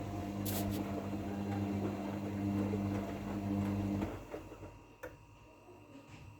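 LERAN WMS 27106 WD2 washing machine running with a steady electric hum, which stops about four seconds in, followed by a couple of faint clicks.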